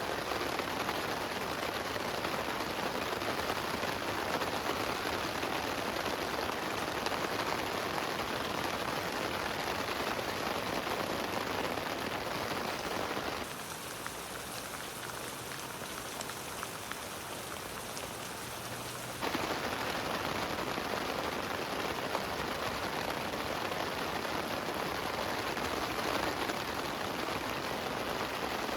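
Heavy rain falling steadily. About halfway through it turns softer and duller for some six seconds, then comes back at full strength.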